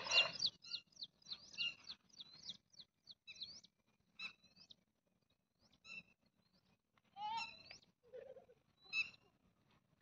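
Birds chirping: short, high calls with quick upward sweeps. They come in quick succession at first, then thin out to a call every second or two.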